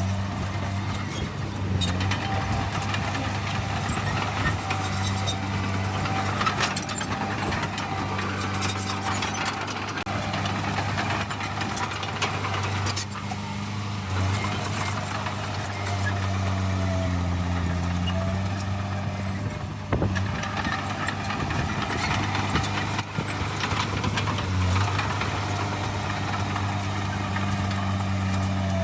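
Heavy diesel engine of earthmoving machinery running steadily, its pitch dipping and recovering a few times as the load changes, with scattered light clanks.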